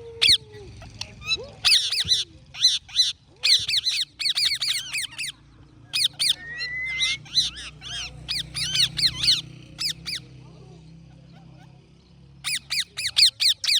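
Pet parrots calling in rapid runs of short, high, arching chirps, several bursts with pauses between, and one longer rising whistle about six seconds in.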